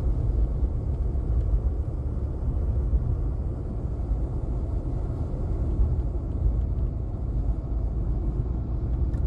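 Steady low rumble inside the cabin of a Volkswagen Lupo 3L being driven: road noise and its small three-cylinder diesel engine, with the heater fan running on full blast.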